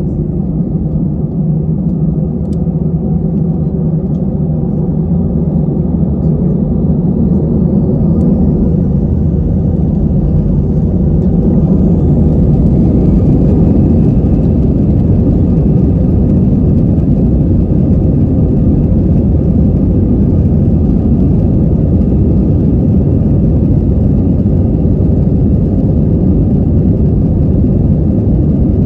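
Airbus airliner's jet engines spooling up to take-off power, heard from inside the cabin: a whine rises in pitch from about eight to twelve seconds in as the sound grows louder. After that comes a steady, loud rumble of the take-off run.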